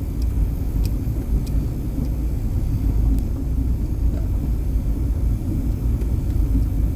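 Car driving, heard from inside the cabin: a steady low rumble of engine and tyres on the road, with a few faint ticks.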